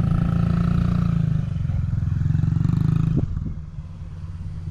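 Motorcycle engine running steadily under throttle. About three seconds in there is a sharp knock, and the engine sound falls away, then rises again near the end.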